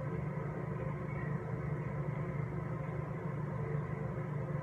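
Steady low hum without any change.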